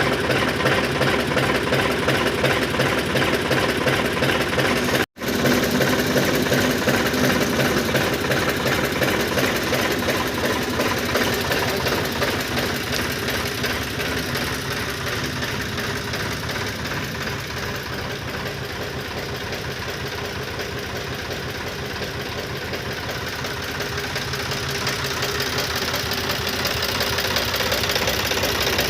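Sonalika RX 60 tractor's diesel engine running steadily, with a brief cut-out about five seconds in. The sound gets somewhat quieter through the middle and comes back up near the end.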